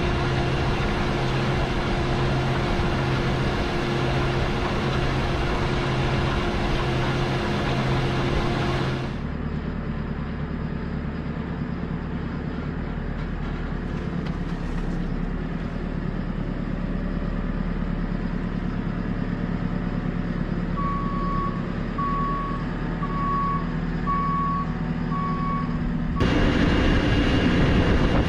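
Tractor engine running under load while drilling, its sound changing abruptly twice. Near the end, five electronic beeps about a second apart.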